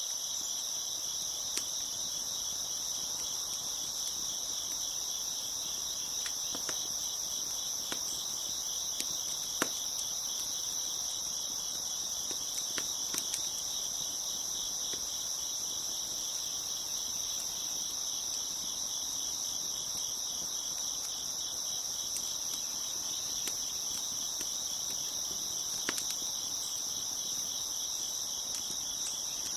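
A dense, steady chorus of crickets chirping at a high pitch, with scattered sharp pops and crackles from a wood fire, the loudest about ten seconds in and another late on.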